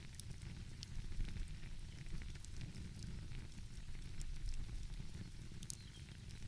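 Crackling wood fire: scattered sharp pops and snaps over a steady low rumble.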